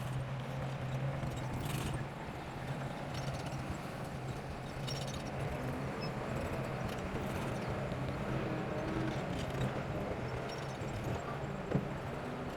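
Bulldozer diesel engine running steadily, with scattered metallic clicks and clanks over the drone.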